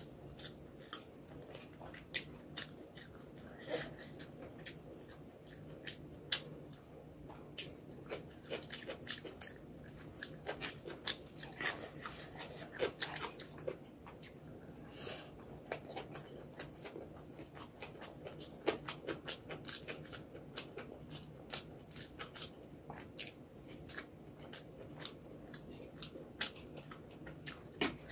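Close-miked eating sounds of rice and egg curry eaten by hand: chewing with many small, sharp wet clicks and smacks from the mouth, and fingers working the rice on the plate. A faint steady low hum lies underneath.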